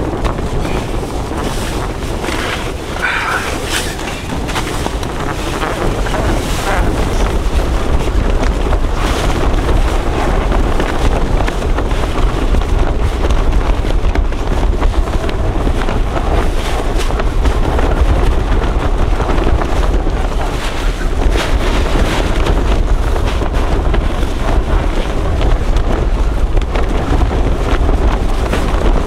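Gale-force wind gusting hard against the microphone, a steady low rumble, with the fabric of a Lanshan 2 tent flapping and rustling over it throughout.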